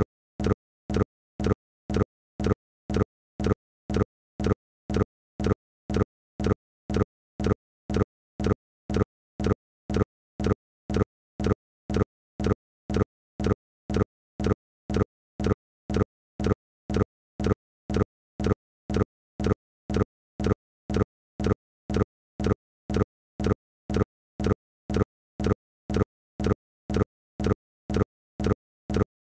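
Short, low, dull pulses repeating with machine-like evenness about twice a second, with silence between each one.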